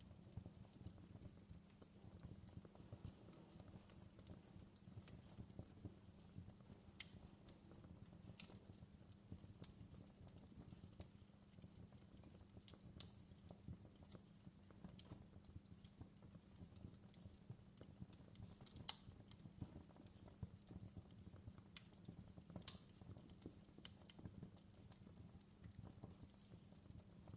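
Faint wood fire crackling in a fireplace: a dense, steady low crackle with a few sharp pops, the loudest two coming about two-thirds and five-sixths of the way through.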